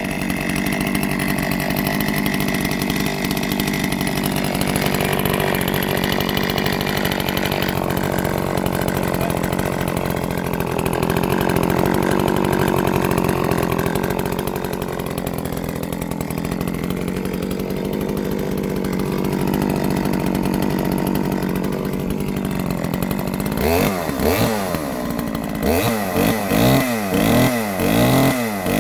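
Solo 647 two-stroke chainsaw with a ported dual-port muffler, running steadily, then revved up and down repeatedly from about 24 seconds in. By the owner's account the carburettor still needs adjusting.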